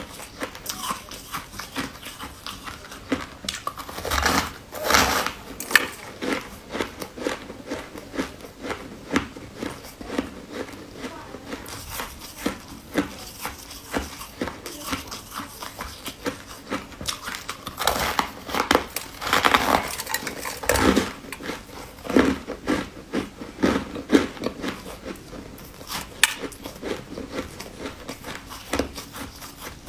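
Close-up crunchy biting and chewing of a white ball-shaped sweet, a stream of crackling crunches and mouth clicks. The crunching comes in louder clusters about four to six seconds in and again from about eighteen to twenty-one seconds in.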